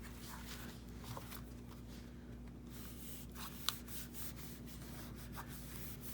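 Faint rustling and rubbing of paper being handled and glued down, with a single sharp tick about two-thirds of the way through.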